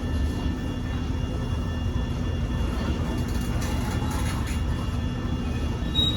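Freight train rolling past at a grade crossing: a steady low rumble, with a brief high-pitched squeal near the end.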